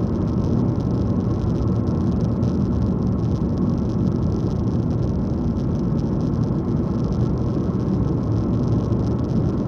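Car driving at a steady speed, heard from inside the cabin: a steady low rumble of engine and tyres on the road.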